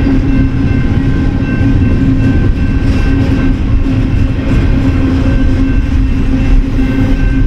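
BNSF freight train's cars rolling past on steel rails: a steady, loud rumble with a constant hum running through it.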